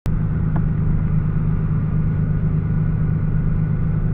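Drift car's engine running steadily at an even, low drone, with no revving, starting suddenly at a cut.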